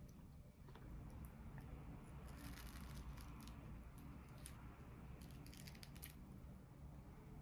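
Faint small clicks and rustles of something being handled, in two short clusters, over a low steady hum.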